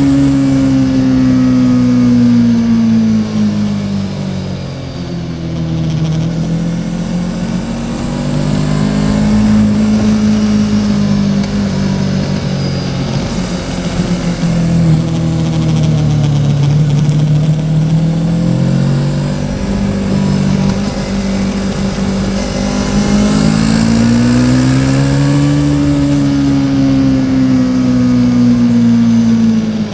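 Yamaha Tracer 700's 689 cc parallel-twin engine running while riding, its pitch rising and falling with the throttle: easing off at first, climbing again about ten seconds in, settling lower, then climbing once more before easing off near the end.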